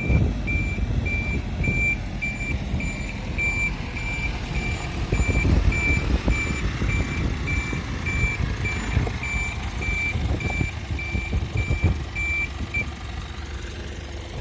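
Truck reversing alarm beeping steadily, a bit under two beeps a second, over a running engine; the beeping stops near the end while the engine keeps running.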